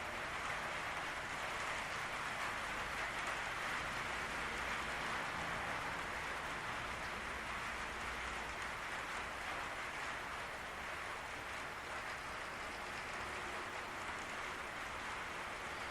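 Rain falling steadily on a patio roof: an even hiss of drops.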